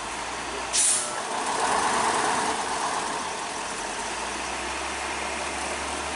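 Truck engine running steadily, with a short sharp hiss about a second in.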